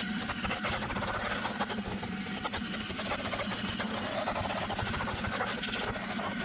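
A machine running steadily: a low hum under a constant hiss.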